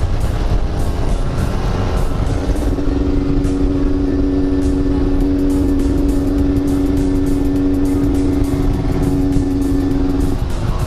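Yamaha RX-King's 135 cc two-stroke single-cylinder engine running under way while being ridden. Its note climbs over the first couple of seconds, then holds steady at constant revs until shortly before the end.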